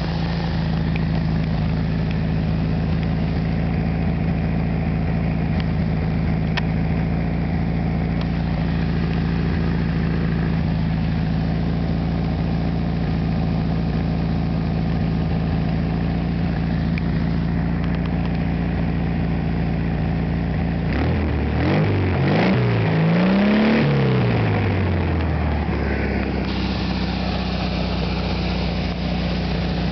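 1973 Volkswagen Super Beetle's rebuilt 1600 cc air-cooled flat-four idling steadily on its freshly cleaned and adjusted carburettor. About three quarters of the way through it revs once, rising and falling back to idle over a few seconds.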